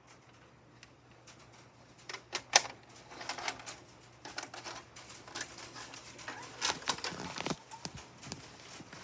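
Handling noise: a run of irregular sharp clicks and knocks over a steady low hum. One click about two and a half seconds in is the sharpest, and there is a denser cluster near the end.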